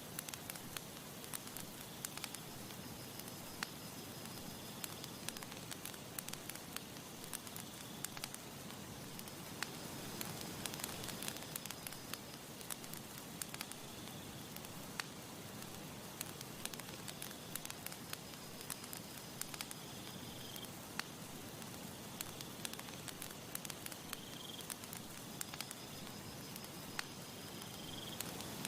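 Campfire crackling, with frequent sharp pops and snaps over a steady soft hiss of breeze. Faint short high-pitched chirps recur every few seconds.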